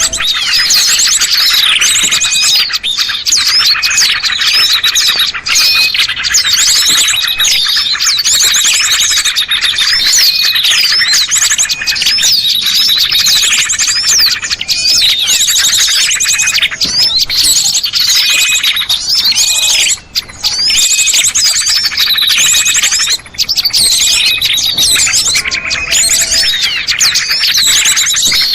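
Bird-lure recording of small songbirds chirping and twittering loudly, many high, quick calls and trills overlapping without a break.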